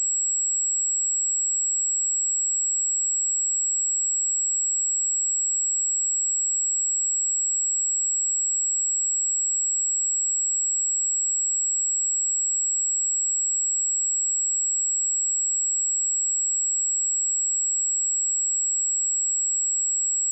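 A steady pure sine-wave test tone at 7696 Hz, a single high-pitched whistle held at constant level.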